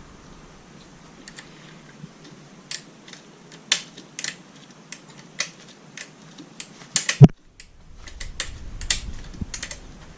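Irregular metallic clicks and clinks of tools and parts being handled during work on a motorcycle's chain and sprockets, with one louder knock about seven seconds in.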